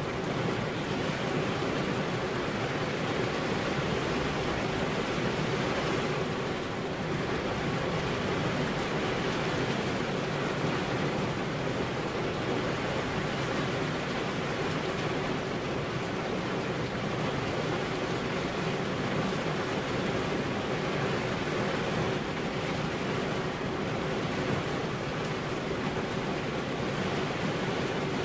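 Steady rain falling, an even unbroken hiss, with a faint steady hum underneath.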